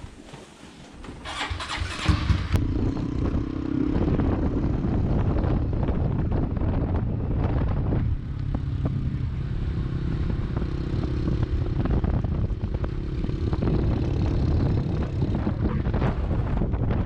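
Honda Cross Cub motorcycle's single-cylinder four-stroke engine starting about two seconds in and then running steadily.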